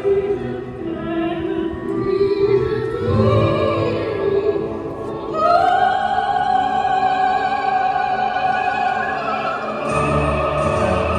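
Operatic classical music: a singer over an orchestra, with a long held note wavering in vibrato through the middle.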